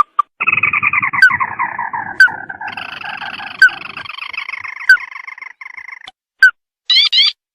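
Recorded lure calls of the sintar mata merah bird. A long, rattling call falls slowly in pitch, while sharp rising notes repeat about every second and a bit. Near the end come a few short calls.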